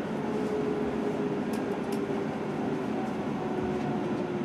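Kintetsu limited express train running, heard from inside the carriage: a steady rumble with a faint whine that falls slowly in pitch as the train slows into a station.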